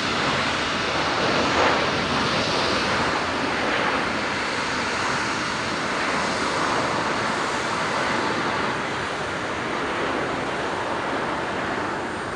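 Jet airliner engines: a steady, even rushing noise with no clear tones, holding level throughout.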